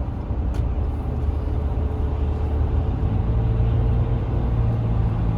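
Cab interior engine and road noise of a 2014 Ram 3500 dually pickup driving, a steady low drone whose pitch rises about three seconds in as the truck picks up speed.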